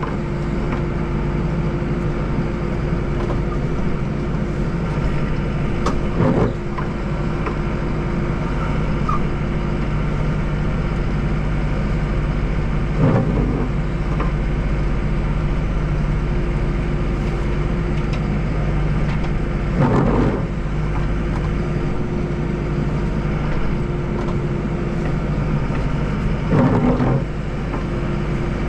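Deutz 5120G tractor engine running steadily under load while driving a front-mounted dual-auger snowblower, with four brief louder surges about seven seconds apart.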